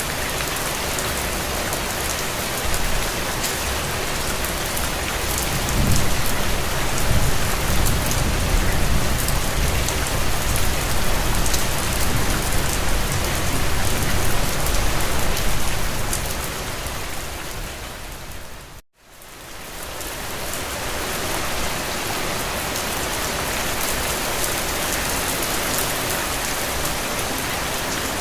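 Steady rain pattering on a window glass. A low rumble rises about six seconds in and lasts some ten seconds, then the rain fades out to a moment of silence about two-thirds of the way through and fades back in.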